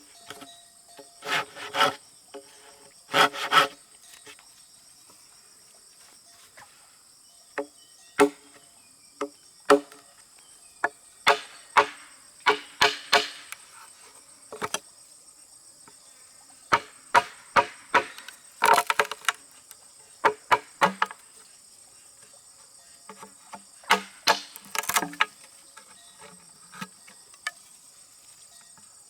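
Irregular knocks and strikes on wood, some single and some in quick clusters, several with a short ringing tone. Under them runs a steady high-pitched drone of insects.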